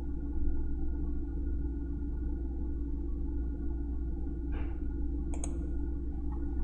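Steady low electrical hum, with a brief soft rustle about four and a half seconds in and a couple of faint clicks just after.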